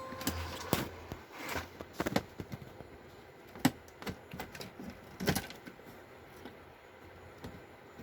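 Irregular clicks and knocks of a TV main board and its cables being handled and fitted back onto an LED TV panel, loudest a few times in the middle.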